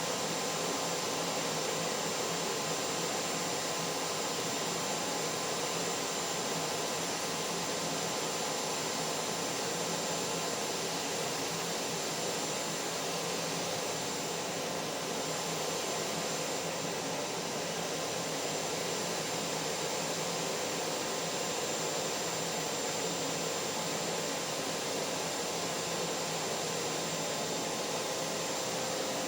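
Vacuum cleaner motor running steadily, a constant rushing air noise with a faint steady whine and no change in pitch or level.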